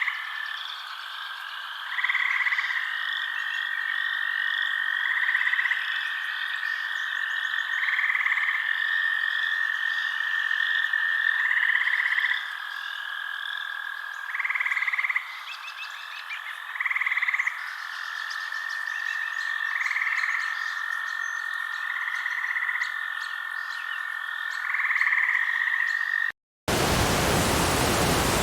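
Night ambience of frogs croaking, with louder calls about every three seconds over a steady high trill. About 26 seconds in it cuts briefly to silence, then changes to a steady rush of falling water.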